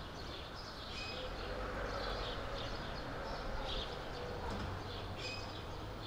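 Small birds chirping, short high calls scattered throughout, over a steady low city hum.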